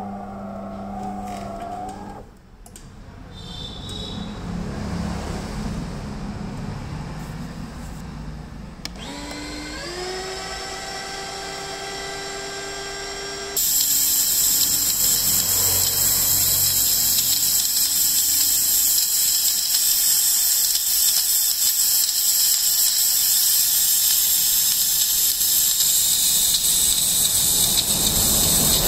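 DeLonghi espresso machine working: an electric motor whirs, rising in pitch and then holding steady, and about halfway through a loud, steady steam hiss cuts in and keeps going.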